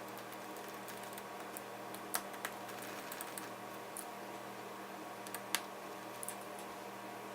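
Scattered light clicks and taps at irregular intervals, typical of small tools and parts being handled during laptop disassembly, over a steady electrical hum.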